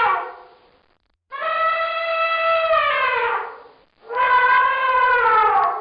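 Elephant trumpeting: two long, brassy blasts about two seconds each, separated by a short gap, each sagging in pitch as it ends, after the tail of an earlier blast fades out at the start.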